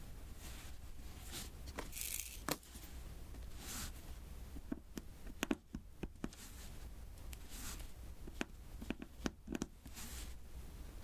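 Diamond painting handling sounds: a string of small, irregular taps and clicks of drills being pressed onto the sticky canvas, with brief rustles, the most noticeable about two seconds in.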